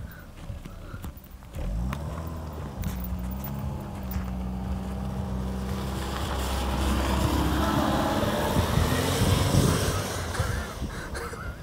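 Estate car's engine revving hard as it pulls away on a snowy road. The engine note kicks in about a second and a half in, holds, then climbs over the second half with a rising hiss of tyres spinning in the snow as the car slides sideways.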